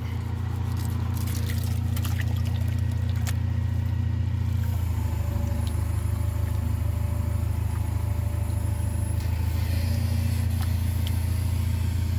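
Gold pan being worked in creek water: water sloshing with a few sharp clicks of gravel in the pan in the first few seconds, over a steady low rumble.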